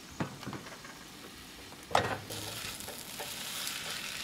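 Eggs and sausage frying in a pan, sizzling, with a sharp knock of a utensil about two seconds in, after which the sizzle grows louder and holds steady.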